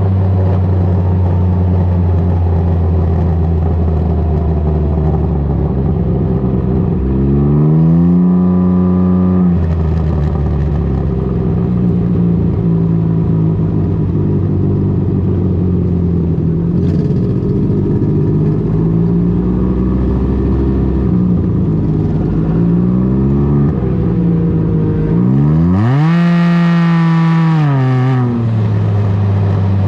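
Can-Am Ryker engine running through an aftermarket BKD Insomnia series exhaust with a steady low drone. The revs climb sharply and drop back twice, about seven seconds in and again about twenty-five seconds in, with a smaller rise in between.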